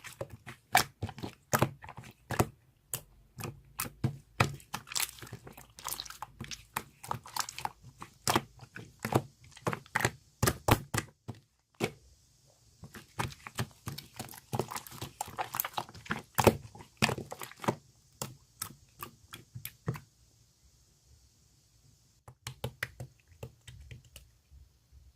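An irregular run of sharp clicks, cracks and crunches, several a second, falling quiet for about two seconds near the end before a few more clicks.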